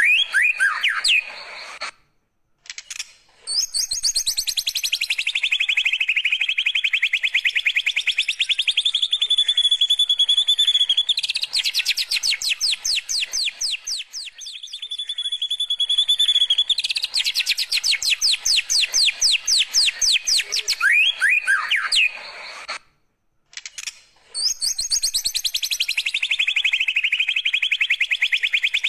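White-rumped shama singing a long, very fast canary-style trill, the 'tembakan' burst. Its rapid repeated notes drop in pitch and then run on at a steady high pitch. The song breaks off abruptly twice for about a second.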